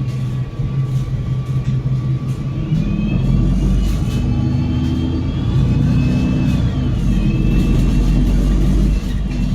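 Enviro500 MMC double-decker bus's Cummins L9 diesel engine and Voith DIWA automatic gearbox under load as the bus moves off and accelerates. A steady low engine hum runs under a high drivetrain whine that rises and falls in pitch. It grows louder about three seconds in and eases off sharply near the end.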